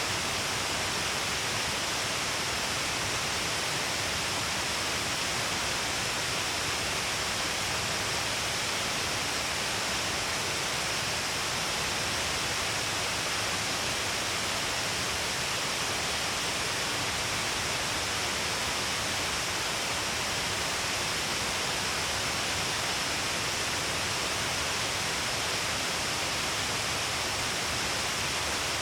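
Steady, even rush of Shiraito Falls, many thin cascades pouring down a long cliff face into heavy spray, with a hiss strongest in the upper range.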